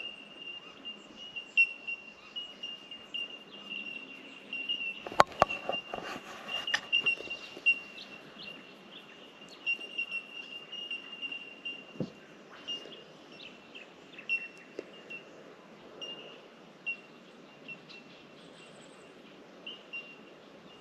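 A bellbird (bell miner) colony calling continuously: many overlapping short, high, bell-like pings. A cluster of sharp knocks comes about five to seven seconds in, and one more about twelve seconds in.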